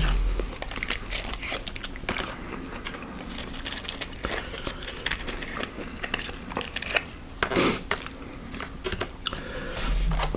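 Close-miked chewing and crunching of fast food, with many small crisp crackles and a louder crunching burst about seven and a half seconds in.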